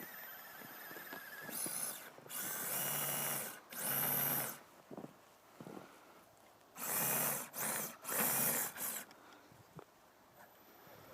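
Brushless electric motor and drivetrain of an Axial Dingo RC crawler on RC4WD Deep Lug tracks, whining in short throttle bursts: about six blips, each half a second to a second long, in two groups.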